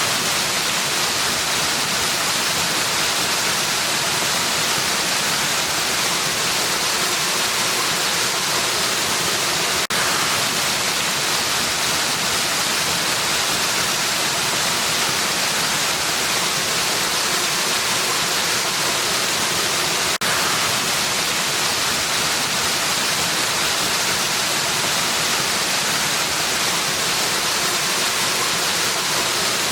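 Waterfall pouring steadily: a dense, even hiss of falling water, with a faint click about every ten seconds.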